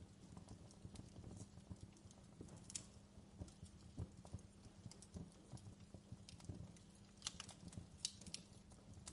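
Fireplace fire crackling faintly: irregular small pops and snaps over a low steady rumble, with a few sharper snaps near the end.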